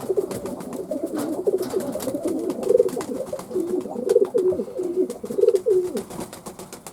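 Fantail pigeons cooing, a run of low, repeated coos from more than one bird overlapping at different pitches, with scattered faint clicks.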